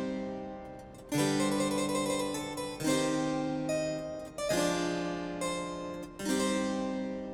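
Background music: slow harpsichord-like keyboard chords, a new chord struck about every second and a half to two seconds and each left to ring and fade.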